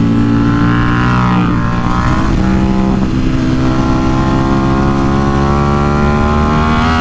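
KTM RC8C's parallel-twin engine running hard at high revs on a race track. Its pitch shifts in the first couple of seconds, then climbs steadily from about three seconds in as the bike pulls through a gear.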